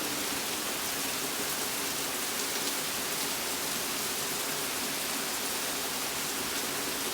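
Heavy rain pouring down, a steady, even downpour.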